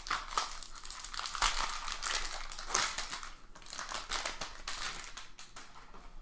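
Foil trading card pack wrapper crinkling and rustling as it is handled and torn open, in a rapid run of short crackling strokes that thins out near the end.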